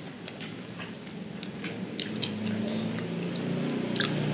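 Close-up chewing and biting of a chicken wing, with short sharp crunches and clicks of the mouth. A low steady hum comes in about halfway through and grows louder.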